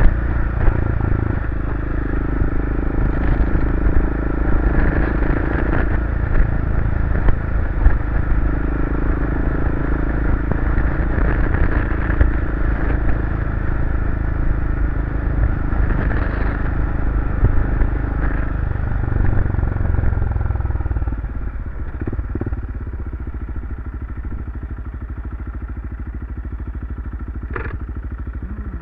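BMW F650CS single-cylinder engine running through an aftermarket Barracuda RX-Max slip-on exhaust while the bike is ridden, heard from a helmet camera. The engine note shifts up and down with the revs, then drops to a quieter, steadier running about two-thirds of the way through.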